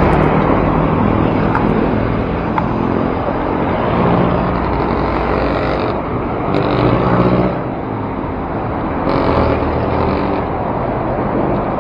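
City road traffic heard from a moving bicycle: engines of nearby cars and other vehicles running and passing over a steady road-noise rush, swelling a few times as vehicles go by.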